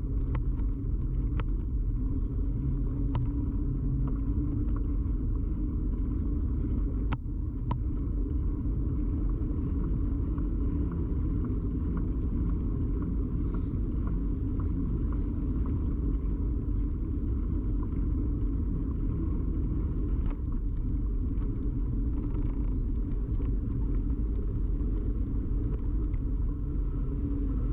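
Steady low rumble of a bicycle ride, carried straight into a camera that is firmly attached to the bike, with a few sharp clicks and rattles in the first several seconds.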